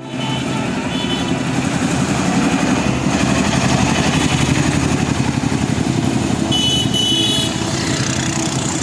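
A road vehicle's engine running close and loud, with short high beeps a couple of times near the start and twice more about seven seconds in.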